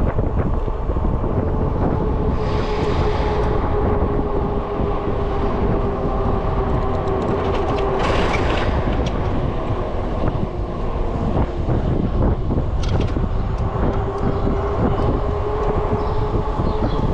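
Wind buffeting the microphone of a moving e-bike, a steady low rumble, with a steady mid-pitched whine under it and a few short hissy bursts about 2.5, 8 and 13 seconds in.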